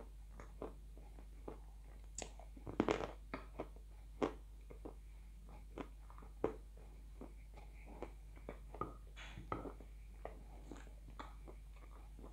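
Close-up mouth sounds of eating chalk topped with blue Uzbek clay: irregular crunches and wet chewing clicks, with a burst of louder crunching about three seconds in.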